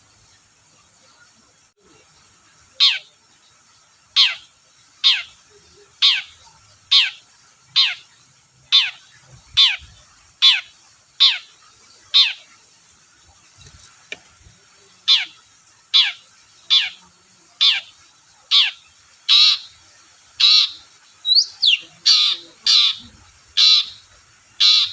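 Long-tailed shrike (cendet) calling: a series of short, harsh, downward-sweeping notes about one a second, starting about three seconds in and coming louder and closer together near the end. A brief thin whistle comes among them near the end.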